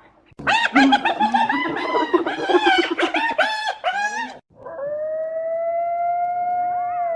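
Animal sound effect: a quick run of short, pitched animal calls for about four seconds, then, after a brief gap, one long howl that holds its pitch and begins to fall near the end.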